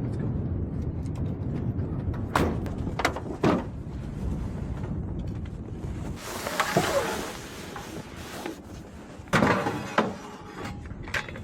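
A series of hard knocks and thunks, three close together early on and more near the end, over a low rumble that dies away about six seconds in, with a rustling hiss in between.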